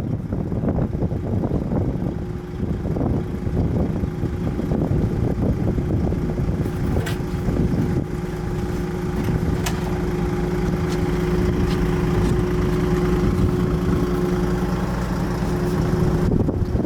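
An engine running steadily with a low, even hum, over wind and rumble. The hum sets in about two seconds in and stops shortly before the end.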